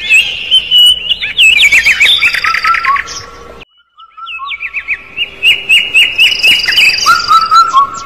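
Birds chirping: many quick, high chirps in fast runs, several birds calling over one another. The sound cuts out suddenly for about half a second near the middle, then resumes.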